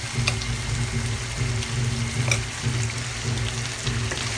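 Chicken drumsticks in rendang gravy sizzling and bubbling in a wok, with a couple of sharp ticks. Soft background music with a steady beat runs underneath.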